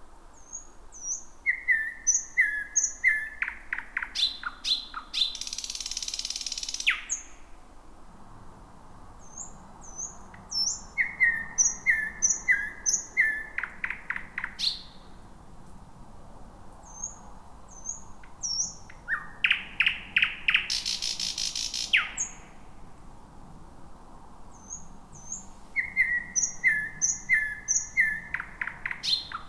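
Thrush nightingale singing: four song phrases a few seconds apart, each made of repeated whistled notes and fast runs of clicks, two of them carrying a long, loud dry rattle.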